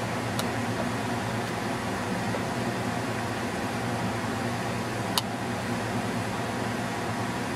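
Steady mechanical hum, like a fan or air conditioner, with two brief faint clicks, one near the start and one about five seconds in.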